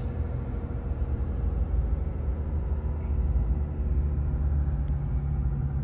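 Car driving along a street: a steady low rumble of engine and road noise.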